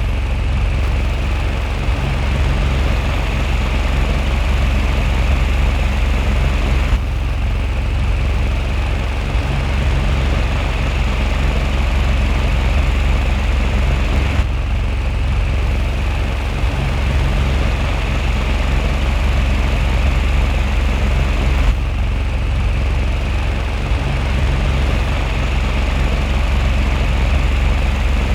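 Small 5V DC mini fan motor running steadily, turning four cardboard blades, with a low rumble of moving air and a steady whir.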